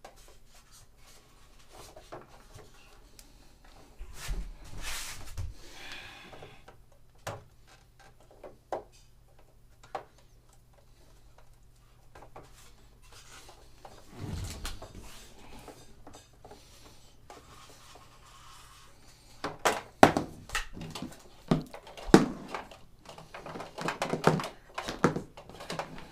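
Knocks, clicks and rubbing from handling and fitting the parts of an oil-filled radiator. The knocks come thick and sharp in the last six seconds or so.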